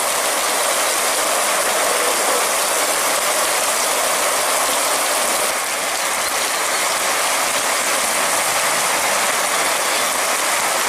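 Heavy rain falling steadily on wet pavement: a dense, even hiss of splashing drops.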